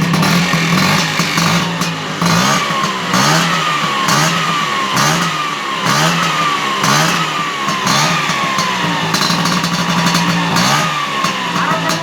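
Old Vespa PX two-stroke single-cylinder engine running, first at a steady idle, then revved in quick throttle blips about once a second. Each blip is a sharp rise in pitch that falls back slowly.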